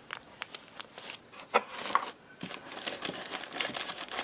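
Plastic packaging crinkling and crackling as it is handled, with two sharper cracks about a second and a half and two seconds in.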